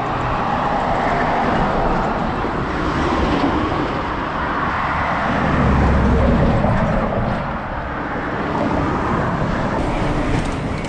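Road traffic passing close by: a steady rush of tyre and engine noise, with a deeper rumble swelling to its loudest around the middle as a vehicle goes past.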